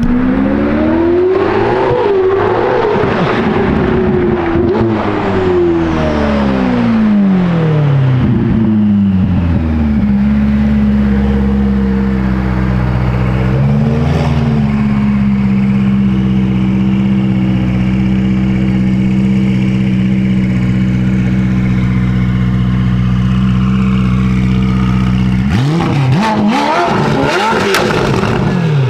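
Ferrari F8 Tributo's twin-turbo V8 through a full catless Ryft exhaust. Over the first several seconds the revs climb and drop repeatedly, then it holds a steady cruising note for about fifteen seconds. Near the end comes a sudden hard acceleration, the pitch rising fast and falling at each upshift.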